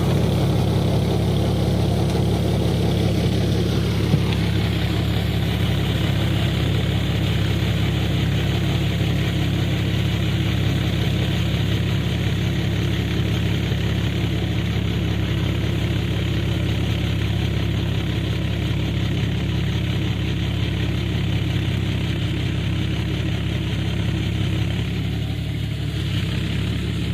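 John Deere tractor's diesel engine running steadily at an even pitch while it pulls a rotavator, puddling a wet paddy field.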